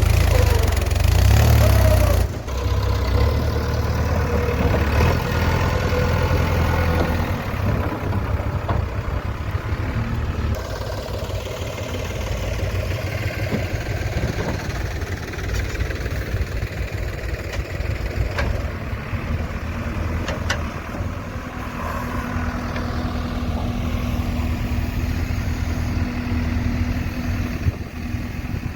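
Heavy diesel engine running, loud for the first two seconds, then dropping suddenly to a steadier, lower run for the rest.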